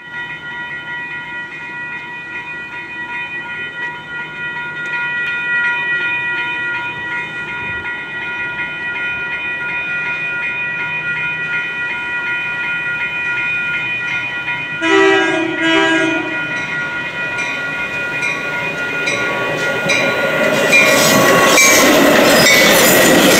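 Grade-crossing warning bell ringing steadily with the barriers down. About fifteen seconds in, the horn of an approaching Metra bilevel commuter train sounds two short blasts. The train then arrives and passes, its noise swelling to become the loudest sound.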